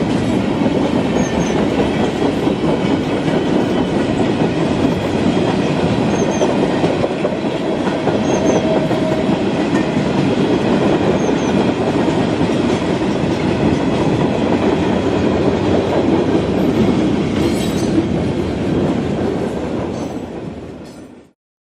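Dubbed-in recording of a full-size train rolling past, a steady rumble of wheels clicking over rail joints with a few faint wheel squeaks. It fades out near the end and cuts to silence.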